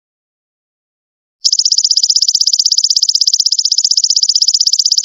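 Golden locust (belalang emas) insect's loud, high-pitched pulsing trill, about fifteen pulses a second, starting abruptly about a second and a half in after silence.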